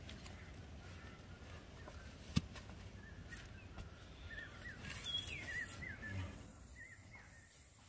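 Faint bird chirping: a quick run of short high notes, each rising or falling in pitch, about halfway through. A single sharp knock about two and a half seconds in.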